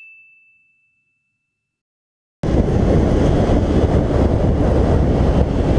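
A chime's ringing tone fades away, then silence. About two and a half seconds in, a steady rush of wind and road noise from a riding motorcycle's camera cuts in abruptly.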